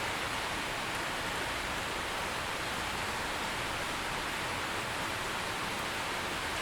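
Rain falling steadily, an even hiss with no let-up or change.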